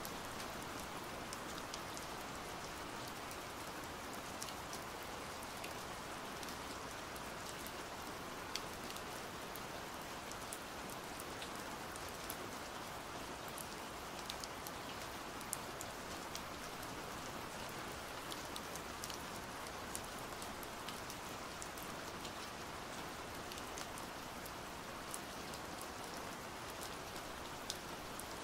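Steady pouring rain, with many small sharp drop ticks scattered through the constant hiss.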